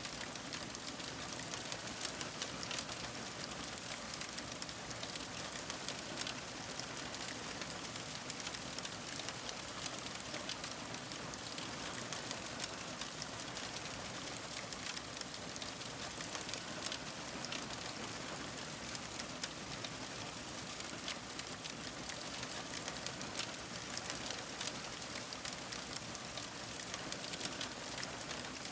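Fire crackling steadily: a soft hiss dotted with many small, irregular pops and snaps.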